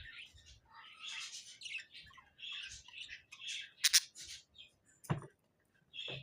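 Budgerigar chattering in a run of short, quick chirps, with a sharp click about four seconds in.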